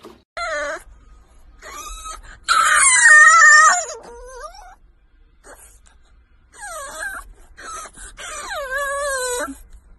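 French bulldog puppy howling in a series of wavering, drawn-out wails. The loudest and longest wail comes about three seconds in, and after a pause of about two seconds come several shorter wails.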